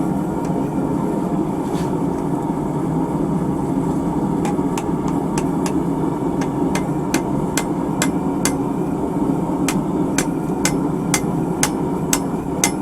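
Hand hammer striking hot horseshoe steel on an anvil, squaring up the cut end: a steady run of ringing blows at about two to three a second, starting about four seconds in, over a steady background drone.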